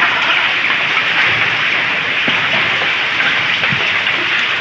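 Hail and rain pelting down in a storm: a loud, steady dense hiss with scattered small ticks of hailstones striking surfaces.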